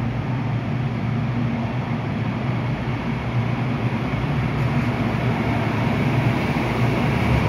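Kintetsu Hinotori limited express electric train running: a steady rumble with a low hum, growing a little louder in the second half.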